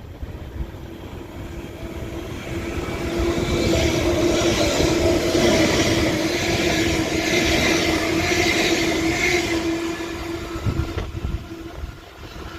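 Doubled-up West Midlands Railway Class 730 electric multiple units (two Bombardier Aventra trains coupled) passing through the station. The sound builds from about two seconds in and is loudest through the middle, with a steady electric motor tone over wheel-on-rail rumble. It fades away near the end.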